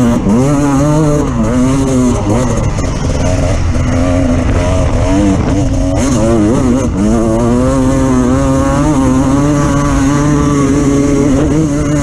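Off-road vehicle engine running hard under varying throttle, its pitch rising and falling repeatedly as it is revved up and backed off, with brief dips between pulls.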